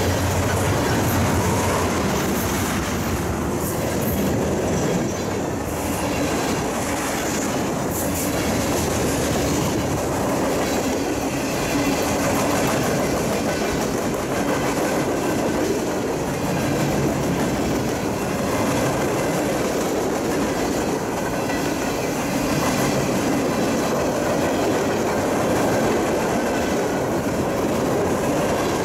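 Freight train's tank cars and gondolas rolling past, steel wheels running over the rails in a steady noise with scattered clicks and clatter.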